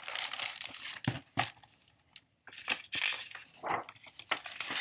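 Paper rustling and crinkling as a picture book is handled and its page turned, in two stretches with a short pause between.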